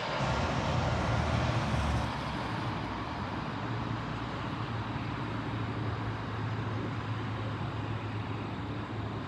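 Engine roar of a passing jet aircraft dying away, leaving a steady low rumble. It is louder for the first two seconds, then settles.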